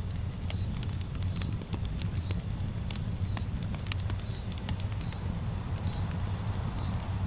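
Campfire burning: a steady low rumble with scattered sharp crackles and pops. A short high chirp repeats at an even pace, a little more than once a second.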